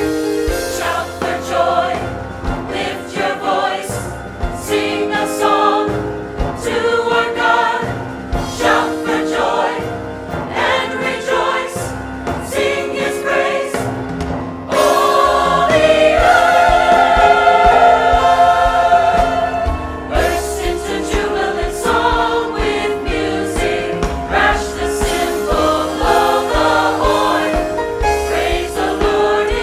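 Church choir singing over instrumental backing music. It swells noticeably louder about halfway through.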